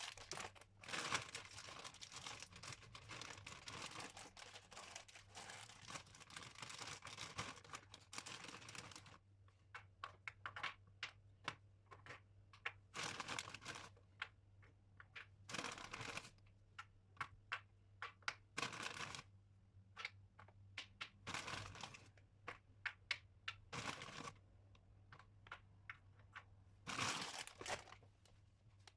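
Close, quiet handling noise: steady rustling and crinkling for the first several seconds, then scattered light clicks and short rustles.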